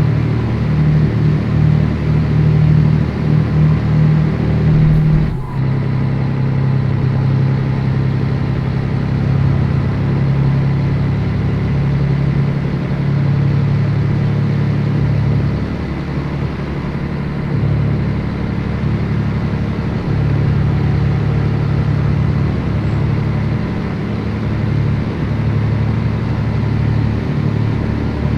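Scania 113 truck's 11-litre six-cylinder diesel engine running steadily under way, with a short break in its sound about five seconds in.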